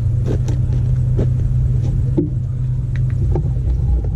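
Steady low rumble of a running motor vehicle, with a few faint clicks and knocks.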